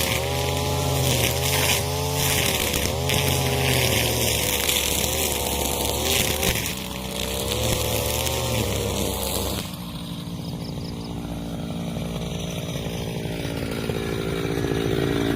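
Husqvarna 541 brushcutter's two-stroke engine running at working revs with its nylon trimmer line spinning, the pitch wavering as it cuts grass. About ten seconds in the throttle is let off and the engine drops to a lower, steadier speed.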